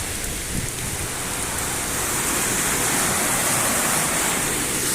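The Porter Brook in flood, fast high water rushing in a steady roar that grows a little louder partway through, with rain falling.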